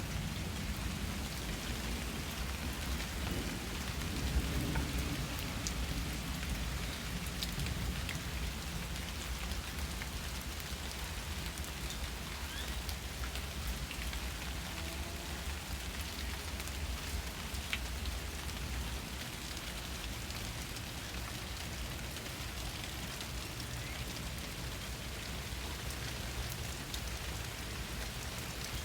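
Steady rain falling, with scattered drop ticks over an even hiss and a low rumble beneath it.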